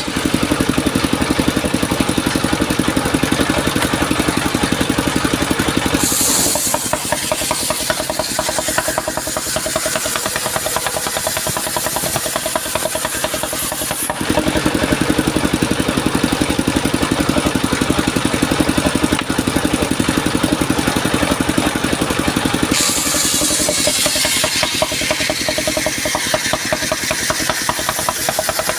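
Engine-driven circular sawmill running with a fast, even engine pulse under the blade noise. Louder stretches alternate with quieter ones every several seconds, with short bursts of high hiss about six seconds in and again near the end, as the saw works through mahogany.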